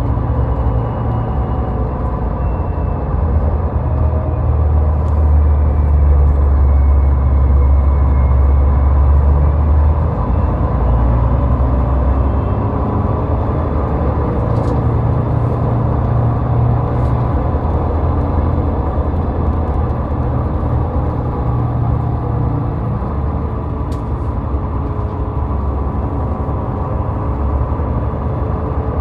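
Steady low rumble of a car driving on a highway, tyre and engine noise without pauses, swelling a little between about four and ten seconds in.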